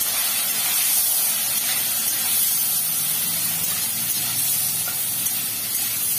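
Sliced bitter gourd sizzling steadily in hot mustard oil in a wok.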